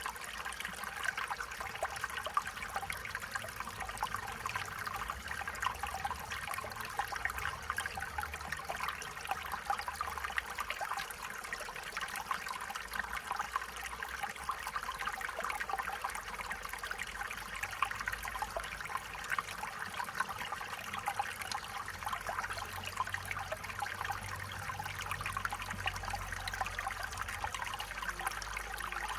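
A stream of water running and trickling steadily, with a dense, even babble of small splashes.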